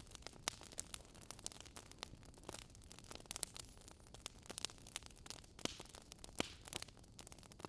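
Crackling wood fire: irregular sharp snaps and pops from burning firewood over a soft steady hiss.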